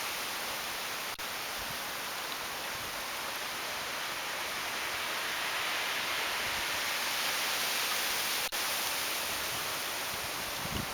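Storm wind rushing through trees and foliage in a steady hiss, swelling a little in a gust partway through.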